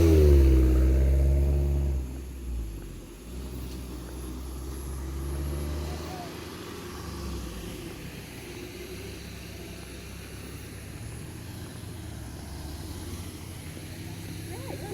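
A motor vehicle's engine passing close by, loudest at first, its pitch falling as it goes past. It fades after about two seconds into a low, steady traffic rumble.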